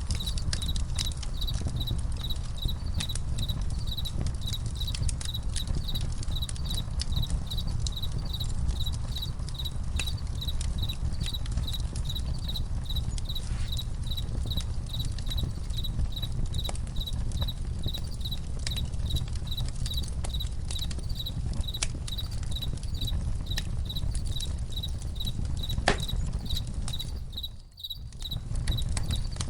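Campfire crackling with scattered sharp pops over a steady low rumble, while crickets chirp in an even, unbroken pulse. The sound drops out briefly near the end.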